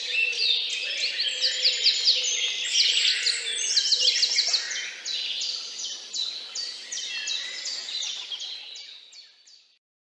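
Many small birds chirping together, a dense chorus of short, quickly repeated high chirps that overlap one another. The chorus fades out near the end.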